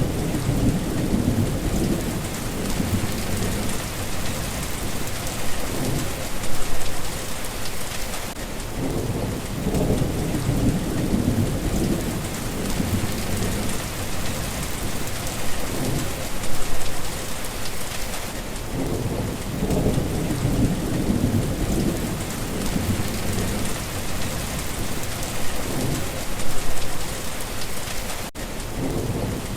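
Steady heavy rain with low rumbles of thunder that swell and fade over and over. There is a brief dropout near the end.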